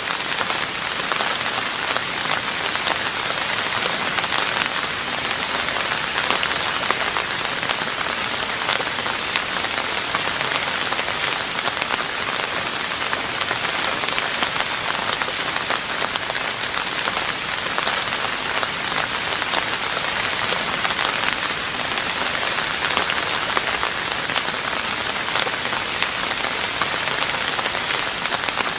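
Steady rain falling on a roof: an even hiss thick with the ticks of single drops, without a break.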